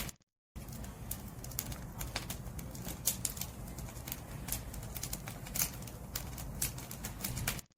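Wood fire crackling, with frequent sharp pops and snaps over a steady low rumble of the flames. The sound drops out to silence for about half a second just after the start and again at the end.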